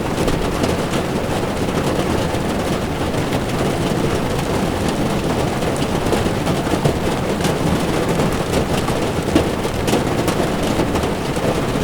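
Heavy rain drumming on a moving car's windshield and body, over the steady rush of tyres on a wet road. Scattered sharp ticks of drops, with one louder tap about nine seconds in.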